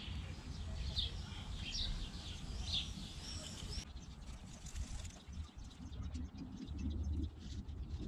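Small birds chirping, short high notes repeated during the first half and stopping abruptly about halfway through, over a low steady rumble.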